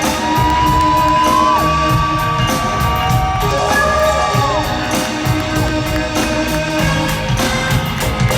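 Live rock band playing, with one high note held for about four and a half seconds, stepping up slightly partway through.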